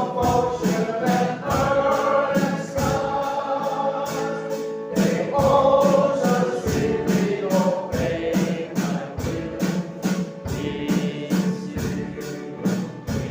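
A choir singing a gospel song over instrumental backing, with a steady percussion beat.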